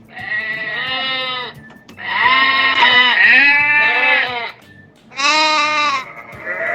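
Sheep bleating: four wavering calls in a row, the second one long, with two voices overlapping.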